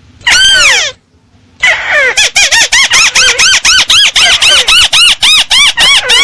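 Lure recording of a tikusan (crake) call. One loud arched, falling note, a short pause, then from about a second and a half in a fast, even series of similar arched notes, about four a second.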